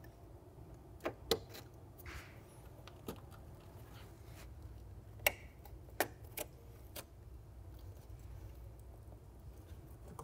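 Headlight wiring connectors being handled and pushed home: scattered sharp plastic clicks and light rustling of the harness over a low steady hum.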